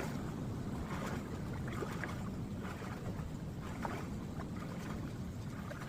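Swimming-pool water sloshing and splashing around a swimmer, over a steady low rumble, with small splashes now and then.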